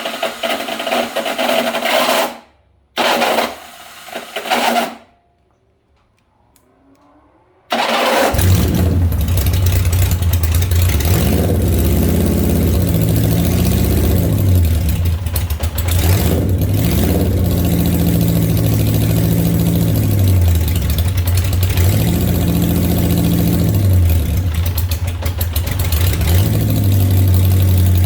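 Engine hard to start: cranked twice in short bursts without catching, then it fires about eight seconds in and keeps running, its speed rising and falling several times before settling into a steady idle.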